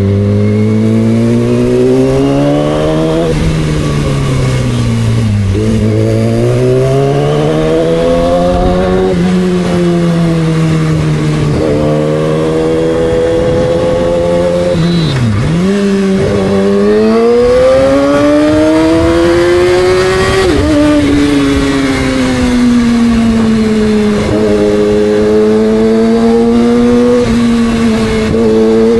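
2006 Yamaha R6's inline-four engine accelerating hard, its pitch climbing and then dropping sharply at each gear change, several times over. In the middle the revs fall away and climb back again.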